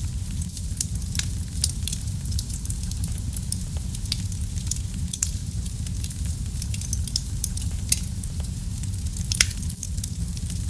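Wood fire crackling in a fireplace: a steady low rumble of flame under a constant scatter of sharp little crackles, with a few louder pops.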